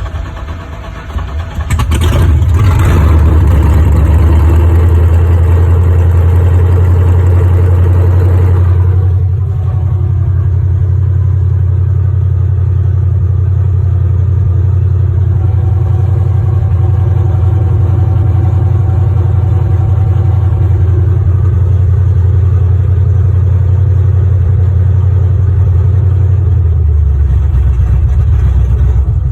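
Chevrolet C10 pickup's engine on a cold start after sitting: it runs rough and uneven at first. About two seconds in it picks up to a loud, steady run at high revs. Around nine seconds in it settles a little lower into a steady idle.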